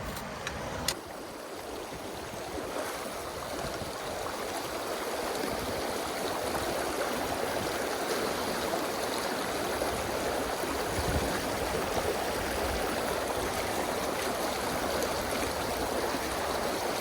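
Mountain stream water rushing steadily, a little louder after the first few seconds. One sharp click about a second in.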